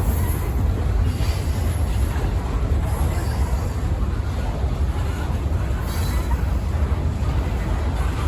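Freight train rolling past with a steady, loud rumble of wheels and cars on the rails and an occasional faint clank.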